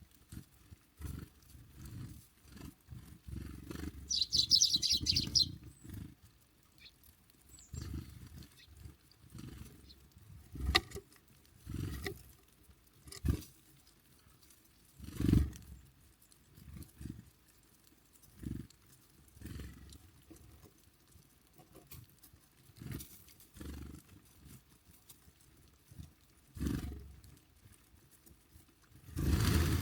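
Irregular low thuds and a few sharper knocks from small birds landing, hopping and pecking on a feeder close to the microphone, with a short high bird call about four seconds in.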